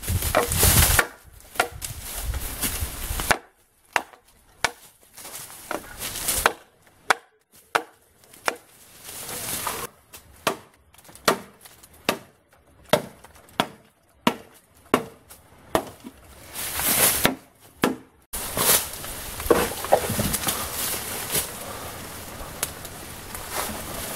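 Repeated chopping blows into bamboo, roughly one or two sharp strikes a second, with short pauses between runs of strokes.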